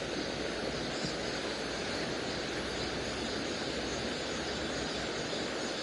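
Steady rushing of flowing water in a mountain stream, an even hiss with no change.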